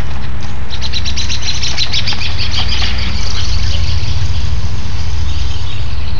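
Small birds chirping in quick runs of short high notes, densest in the first half, over a steady low rumble.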